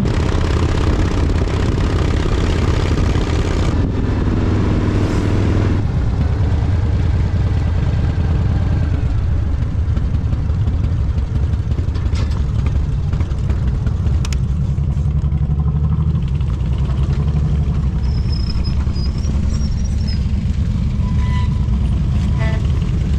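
Big V-twin cruiser motorcycle engines running at low revs: a steady, deep rumble.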